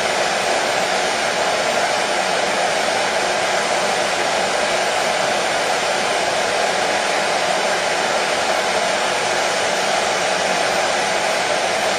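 Electric hair dryer running steadily: a constant whooshing blow of air with its motor hum underneath, even in level throughout, played as white noise to soothe a colicky baby.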